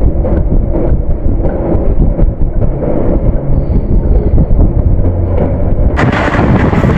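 Heavy, loud, muffled rumble of a moving electric multiple-unit train, with no break in it. About six seconds in, the sound suddenly turns fuller and brighter.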